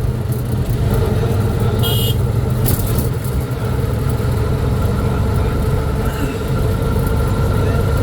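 Road vehicle running steadily, a continuous low engine and road rumble with a steady hum. About two seconds in there is a brief high-pitched tone, followed shortly after by a short sharp noise.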